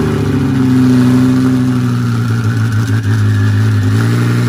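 Heffner twin-turbo Lamborghini Huracán's V10 idling just after being started, a steady engine note that eases slightly in pitch about a second in and lifts a little near the end. It is heard inside an enclosed car-hauler trailer.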